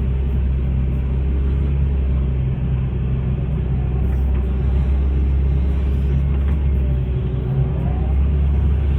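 Hitachi excavator's diesel engine running steadily with a deep drone, and a few faint rising whines in the second half.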